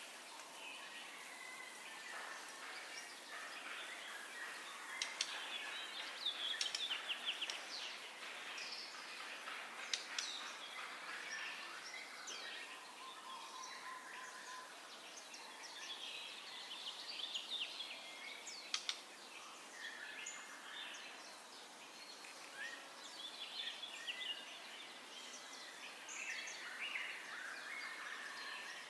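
White-rumped shama (murai batu) singing a varied stream of whistles, trills and fast chattering phrases over a steady background hiss.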